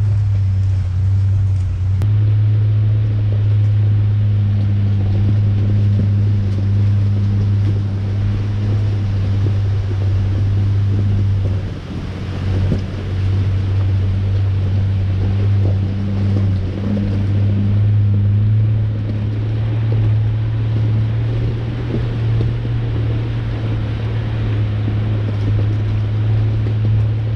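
A 1993 Ford Ranger pickup driving, its engine and drivetrain giving a steady low drone over road rumble, with a brief dip about twelve seconds in.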